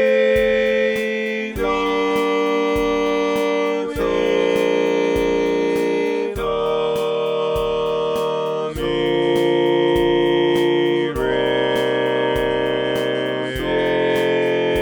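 Four-part harmony played in steady, synthesized, reed-like tones: sustained chords changing about every two and a half seconds, over a steady ticking beat. It is a part-learning track for a short chord exercise.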